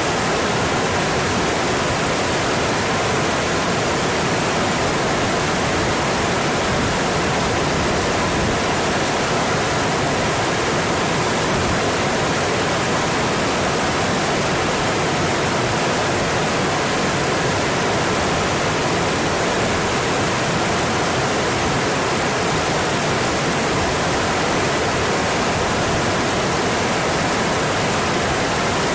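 Mountain stream water rushing and splashing over rocks, a steady full hiss with no change.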